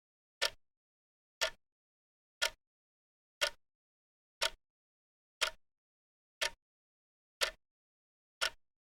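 Clock ticking: one sharp tick each second, with silence between ticks.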